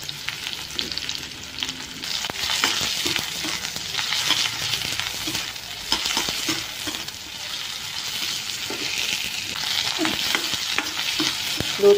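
Chopped onion and garlic sizzling in hot oil in a metal wok, with a metal ladle scraping and clinking against the pan as they are stirred.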